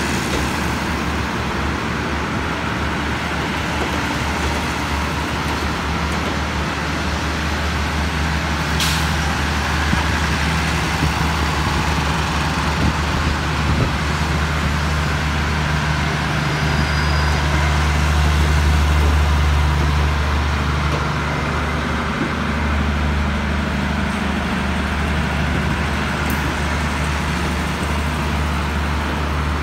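Passenger train coaches rolling slowly along the track past a station platform, with a steady low diesel drone that swells for a few seconds midway and a single sharp click about nine seconds in.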